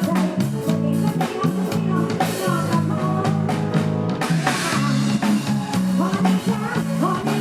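Live Isan pop band music played through a large sound system: steady bass line, drum kit beat and electric guitar melody, with some singing.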